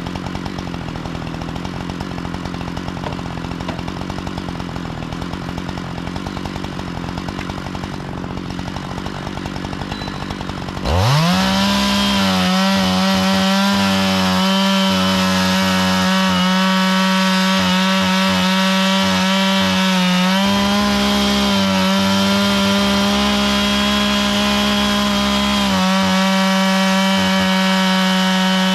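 Chainsaw milling a log: the saw runs unevenly at lower revs, then about eleven seconds in revs up sharply to full throttle and holds a steady high pitch. The pitch dips briefly twice as the load changes.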